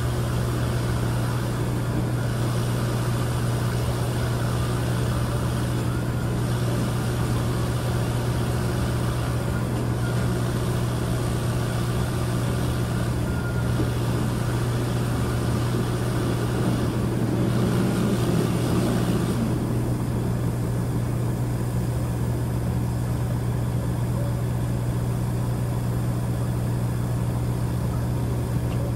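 Freight train of tank cars rolling past close by, a steady rushing rumble of wheels and cars over a constant low diesel engine hum. The rushing thins out about two-thirds of the way through as the last cars pass, and the engine hum keeps going.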